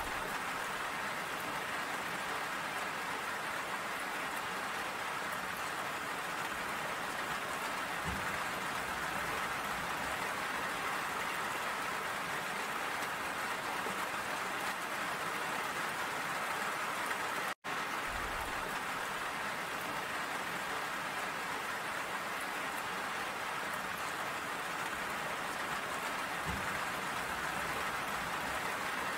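Steady rain falling, an even hiss. The sound cuts out for a split second a little past halfway.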